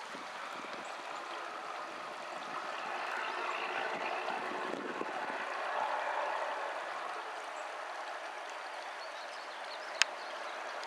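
Creek water running steadily, with a single sharp click near the end.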